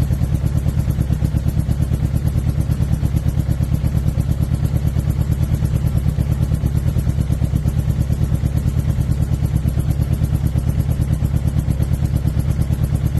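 2006 Suzuki GSX-R600 inline-four engine running at a steady idle with a regular pulsing beat. The owner suspects a misfire or a dead cylinder.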